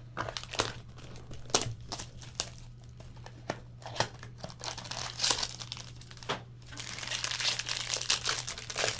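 Trading-card pack wrapper crinkling and tearing as a pack of baseball cards is opened: a run of sharp rustles, densest and loudest near the end. A steady low electrical hum sits underneath.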